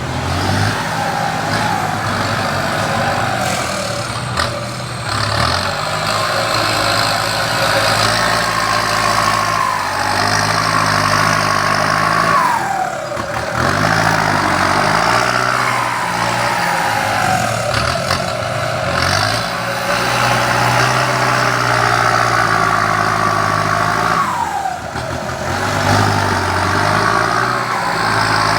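Heavy machinery engines running steadily, from a tractor and dump trucks moving soil, with a falling whine about twelve seconds in and again near the end.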